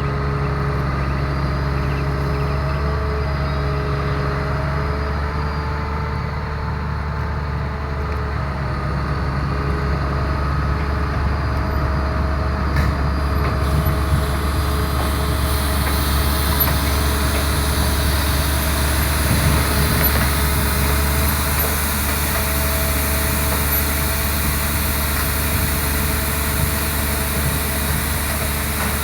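Heavy diesel engine running steadily with a low hum, growing a little louder from about halfway through.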